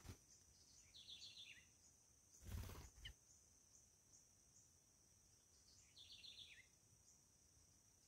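Faint birdsong: two short descending trilled calls about five seconds apart, over a steady high-pitched insect buzz. A brief muffled bump comes about two and a half seconds in.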